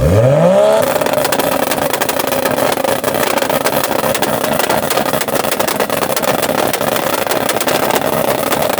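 Car engine revved up sharply and held at high revs for about eight seconds with a rough, rapid crackle, then cut off suddenly near the end.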